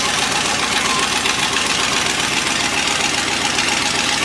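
A vehicle engine running steadily and loud, with a fast, even pulsing.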